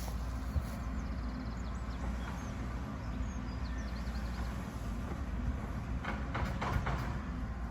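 A machine drones steadily and low throughout. Faint short chirps come about a second to three seconds in, and a few sharp clicks near the end.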